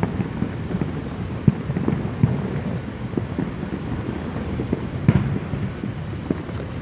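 Fireworks display: a dense barrage of booms and pops with a rumble underneath. Sharper bangs stand out about a second and a half in, just past two seconds, and about five seconds in.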